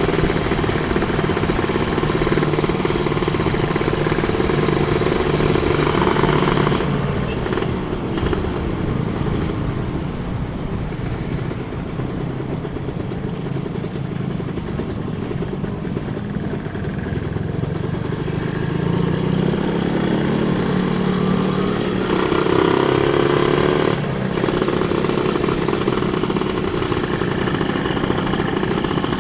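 Two-stroke 150 cc Kawasaki motorcycle engine running under way, heard from the rider's position with road and wind noise. The revs hold steady, drop about a quarter of the way in, climb slowly again later on, and fall sharply near the end as a gear is changed.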